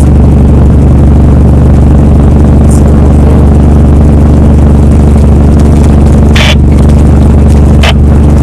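Heavy truck's engine running with a steady low drone. Two short hissing sounds come near the end.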